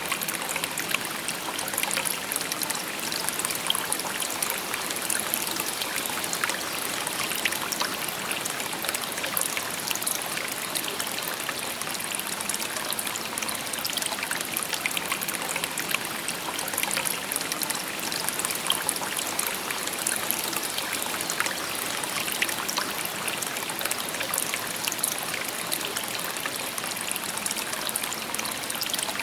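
Shallow river babbling and trickling over stones: a steady bright rush of water with many small splashes and gurgles.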